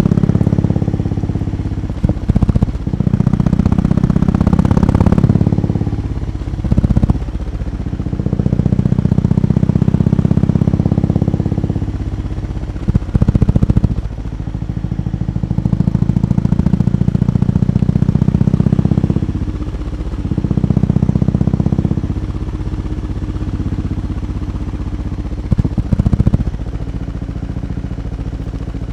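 BMW R18 B's 1802 cc boxer twin running while parked. The exhaust gets louder in several spells of a few seconds and drops back to a lower idle in between.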